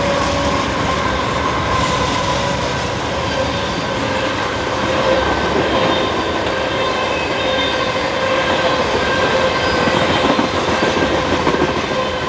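BNSF freight train passing at speed close by: the last diesel locomotives go past, then loaded tank cars roll by, their wheels rumbling and clattering over the rails. Thin steady tones sound over the rumble.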